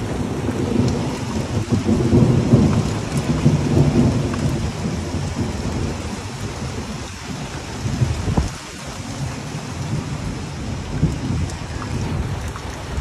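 Heavy rain falling and splashing on a wet street and parked cars, with a low rumble under it that is strongest in the first five seconds and eases off after that.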